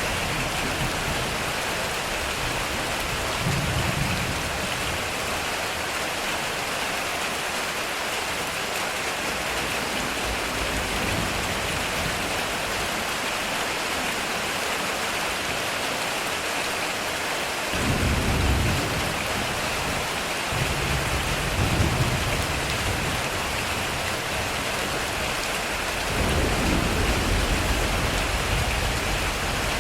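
Heavy rain drumming steadily on a metal roof, with low thunder rumbles: a short one a few seconds in, two more past the middle, and a longer one near the end.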